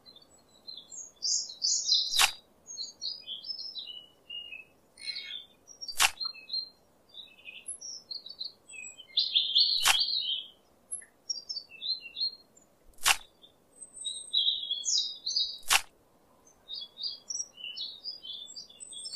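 Small birds chirping and twittering in short high calls, with five sharp clicks a few seconds apart.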